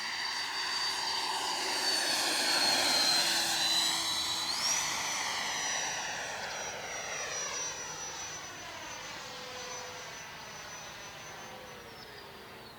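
Freewing J-10 RC jet's 90mm electric ducted fan passing overhead with a high whine. It grows louder to a peak about three seconds in and then fades away. About four and a half seconds in, the whine steps up sharply in pitch and holds there, then drops again near the end.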